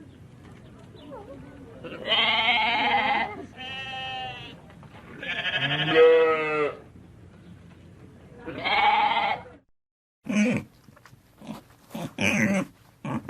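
Sheep bleating: four long bleats a second or two apart, one of them wavering. After a brief silence near the end, short, sharp calls of another kind of animal begin.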